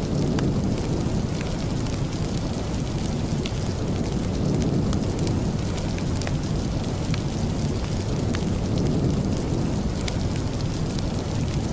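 Steady rain with a deep, rumbling low end, mixed with a crackling fireplace giving scattered faint sharp pops.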